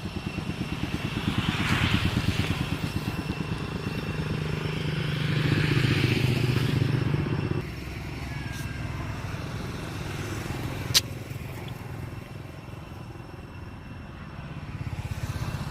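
A small engine running with a rapid low pulsing beat, swelling twice and dropping off about eight seconds in; a single sharp click near eleven seconds.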